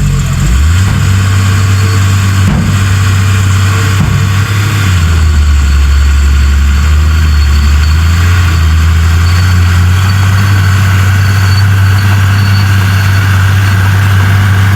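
Heavy diesel engine of earthmoving machinery running steadily under load, its low note shifting about half a second in and again around five seconds in, with a faint knock about two and a half seconds in.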